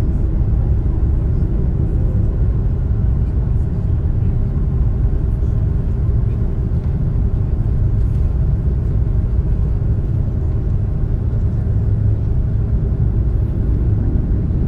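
Steady low rumble of an Airbus A330 taxiing, heard inside the cabin: engines running at taxi power with a faint steady hum above the rumble.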